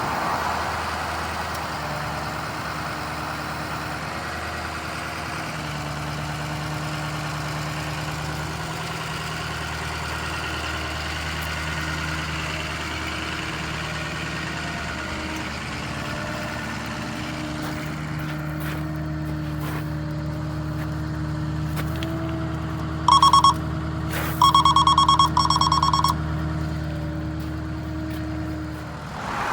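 Ford F550's 7.3-litre turbo diesel engine running steadily, its pitch shifting a little now and then. About three-quarters of the way through, three loud electronic beeps sound in quick succession, one short and two longer.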